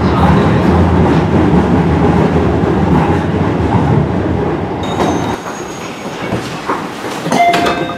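Electric commuter train heard from inside the car: running rumble with some clickety-clack, slowing into a station. About five seconds in the low rumble drops away as the train comes to a stop, and a few brief ringing tones and clicks follow near the end.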